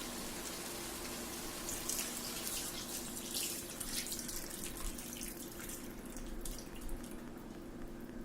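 Water poured into a pan of frying spiced chicken, running and splashing steadily with small crackles, over a steady low hum.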